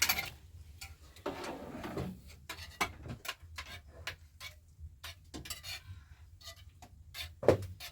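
Dishes and utensils clinking and knocking, a scattered series of short clicks with a brief scrape, as food is served or eaten.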